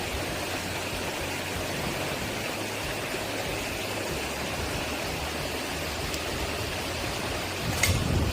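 Mountain stream running steadily, an even wash of water noise. A sharp click near the end, with a brief low bump in loudness.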